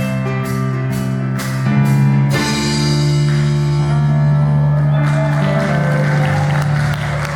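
Live band ending a song: piano and band strike repeated chords about twice a second, then hit a final chord with a cymbal crash that rings on and fades near the end.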